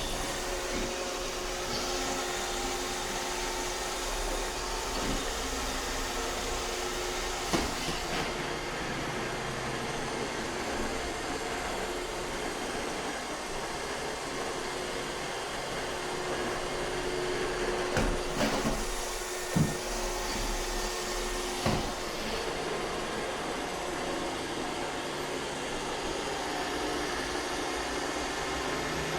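iRobot Roomba 630 robot vacuum running steadily, a whirring noise with a steady hum, broken by a few short knocks, about a third of the way in and again twice near two-thirds of the way through.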